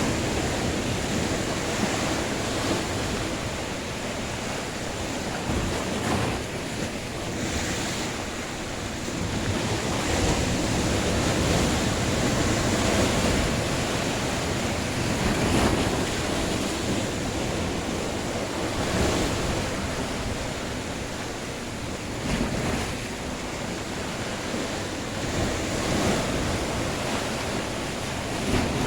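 Sea waves surging and breaking on the shore in a continuous wash of surf that swells and eases every few seconds, with wind buffeting the microphone.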